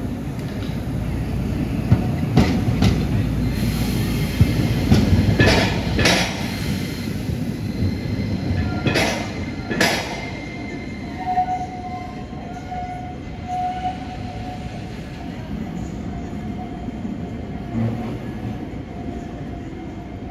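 Iyotetsu Moha 5000 series low-floor tram running in. Its wheels clack sharply over rail joints and points several times in the first ten seconds. It then gives a steady high tone as it slows, and the sound dies away gradually.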